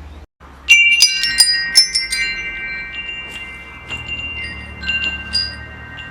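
Metal wind chimes struck in a cluster about a second in, their tubes ringing on in long overlapping tones, then a few lighter scattered strikes toward the end, over a low steady hum.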